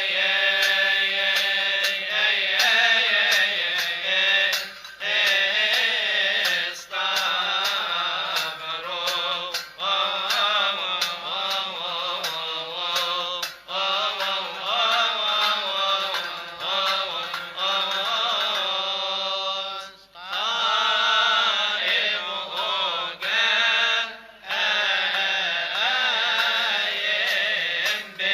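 A man's voice chanting a Coptic hymn in long, drawn-out melismatic phrases with a wavering pitch, pausing briefly for breath every few seconds.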